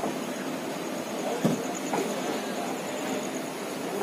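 Passenger train coach pulling slowly out of a station, heard from the open door: a steady rumble of the wheels and running gear. A sharp knock comes partway through, followed by a softer one.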